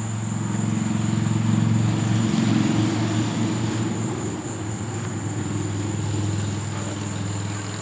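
Low engine drone of a passing motor, swelling over the first couple of seconds and then slowly easing off, over the steady high chirring of crickets.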